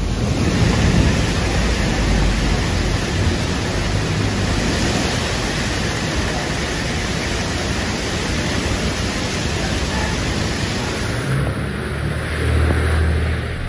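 Heavy rain pouring down, a dense steady hiss of the downpour. About 11 seconds in it gives way to a lower rumble of rushing water.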